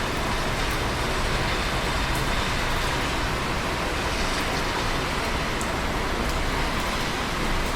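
Steady rain: an even, unbroken hiss with a low rumble beneath and faint scattered drop ticks.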